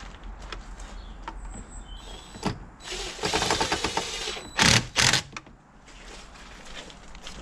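Hand work on a car battery being fitted: scattered clicks, then about a second and a half of rapid mechanical clicking, then two loud clunks.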